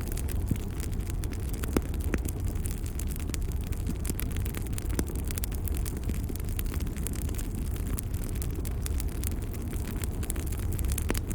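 Wood fire crackling: frequent small sharp pops over a steady low rumble of burning logs, with a few louder pops.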